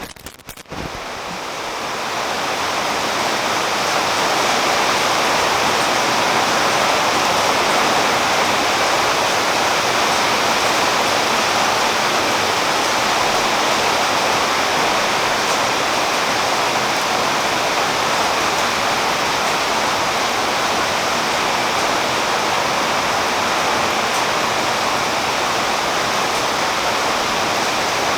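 Steady rain falling on tree leaves, a dense even hiss with no separate drops standing out. It fades in over the first couple of seconds after a brief dip.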